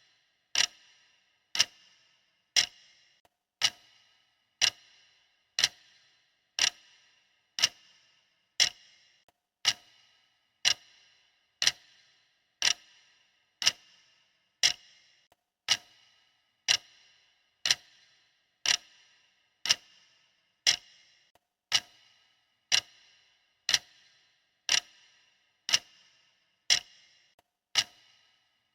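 Clock ticking steadily, one sharp tick about every second, each with a short bright ring.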